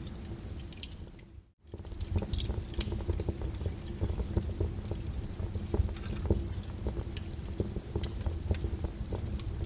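Wood fire crackling: irregular sharp pops and snaps over a low steady rumble of flames. The sound drops out to near silence for a moment about a second and a half in, then resumes.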